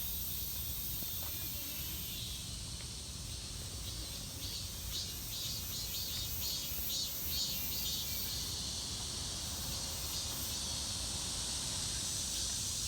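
Insects chirping in a steady series of short, high, evenly repeated pulses over a constant high buzz, with a low rumble underneath.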